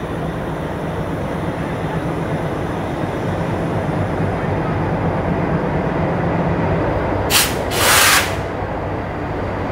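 Passenger train rake running onto the platform: a steady rumble with a low hum underneath. Near the end come two short, sharp hisses of air, the second a little longer.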